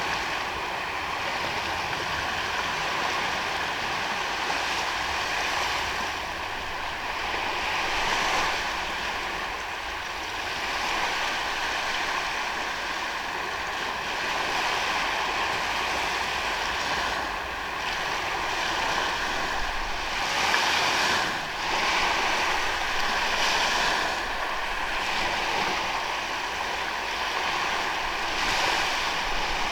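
Ocean waves breaking and washing onto a sandy beach: a steady rush of surf that swells a little every several seconds.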